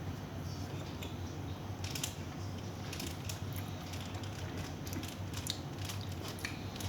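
Scattered small clicks and ticks over a steady low hum.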